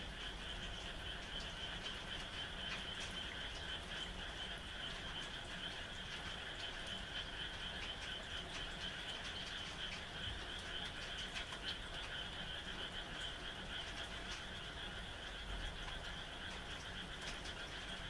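A dense chorus of frogs calling steadily and continuously, with light rain pattering in scattered drops.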